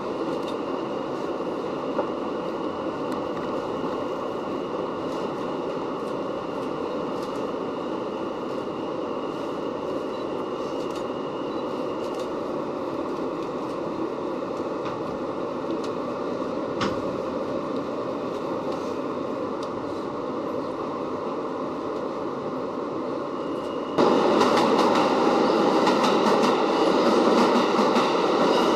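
New York City subway train running, a steady rumble with a thin high whine over it; the sound steps up suddenly and stays louder near the end.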